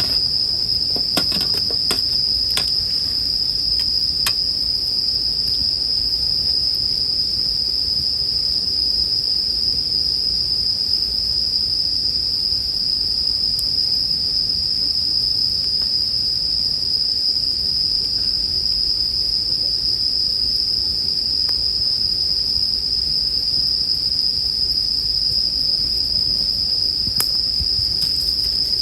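Japanese bell crickets (suzumushi) chirping in a dense, unbroken high-pitched chorus. A few faint campfire crackles come early on and again near the end.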